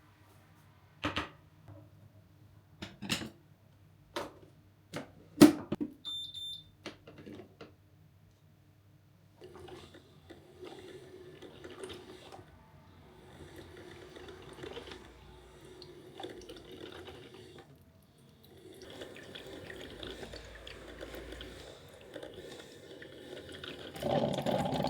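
Kitchen handling sounds: several sharp knocks of things being set down, then a short electronic beep. After that, liquid runs or pours in long stretches with brief pauses.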